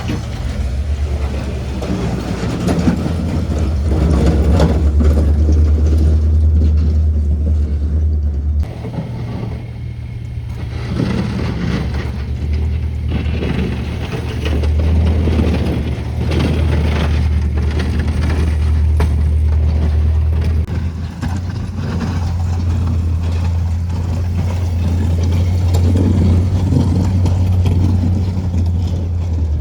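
Car engine running steadily with a low hum, changing abruptly about 9 and 21 seconds in.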